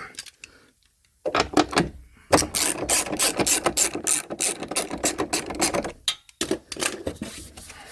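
Ratchet wrench clicking rapidly as it undoes a 13 mm exhaust bracket nut. It goes in runs: a short burst after a pause of about a second, a long run, then a brief stop near six seconds before it carries on.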